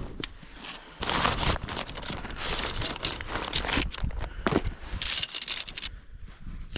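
Crunching steps in deep snow, irregular and loudest between about one and six seconds in.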